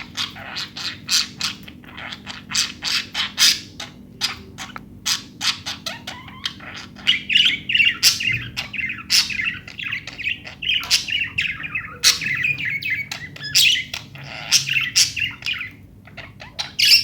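Budgerigars chattering and chirping, with a warbling stretch in the middle, over a run of short, sharp clicks and chirps.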